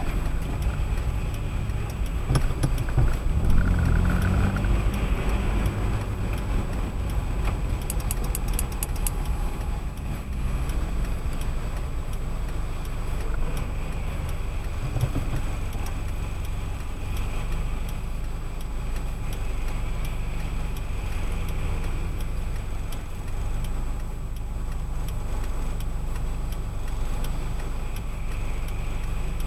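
Car driving on a wet road, with a steady low rumble of tyre and road noise from Firestone Firehawk Sport 01 tyres. A short run of light ticks comes about eight seconds in.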